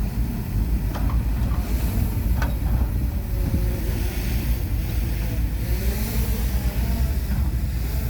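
Heavy earthmoving machinery's diesel engine running steadily, with a few sharp metallic clanks about one second and two and a half seconds in.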